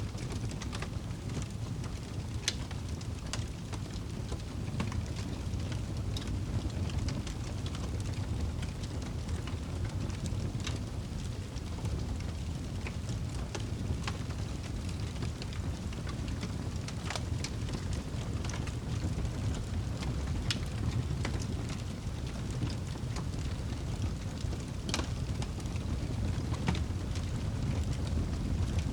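Campfire burning: scattered sharp crackles and pops of burning wood at irregular intervals over a steady low rumble.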